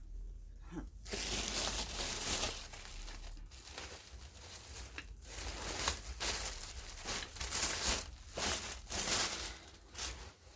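A shopping bag crinkling and rustling in irregular bursts as items are handled in it, starting about a second in.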